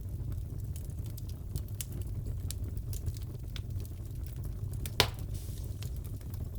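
Wood fire in a fireplace crackling, with scattered small pops over a low steady rumble and one sharp, louder pop about five seconds in.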